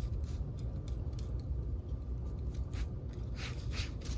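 A German shorthaired pointer puppy chewing and crunching ice in its teeth, a series of irregular crisp crunches and cracks, over a steady low rumble.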